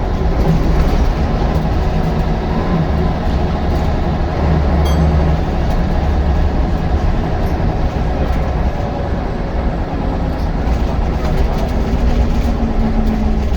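Scania L94UB single-deck bus running, its diesel engine droning steadily under scattered rattles, with the engine note rising near the end as it picks up speed.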